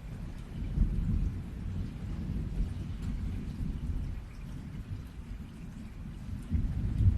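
Low rolling thunder rumbling under steady rain. The thunder swells about a second in and again near the end.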